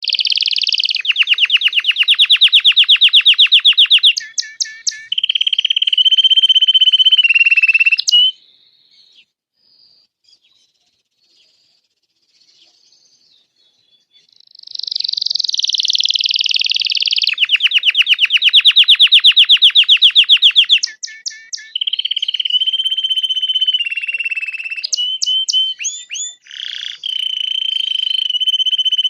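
Red Belgian canary singing its long song: very fast trills and rolls alternating with steady whistled notes, in two long phrases separated by a pause of about six seconds.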